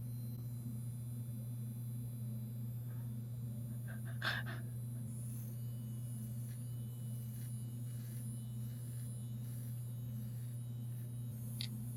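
A steady low hum, broken by one short noisy sound about four seconds in and another near the end.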